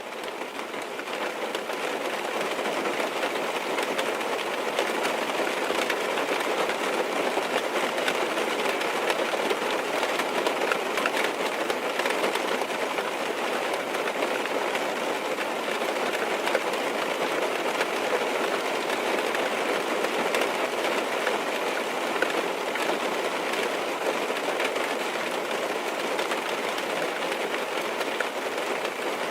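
Rain on a car's roof and windows, heard from inside the car: a dense, steady patter of many small drop ticks. It fades in over the first few seconds.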